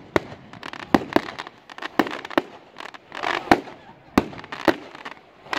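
Fireworks going off: an irregular run of sharp bangs, about two a second, with a denser crackling rush a little past three seconds in.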